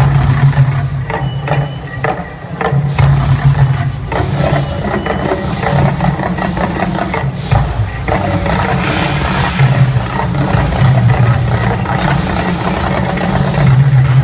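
Mirage volcano show's effects playing loud: a deep, steady rumble with scattered sharp hits, thickest in the first few seconds, and another sharp burst about halfway through.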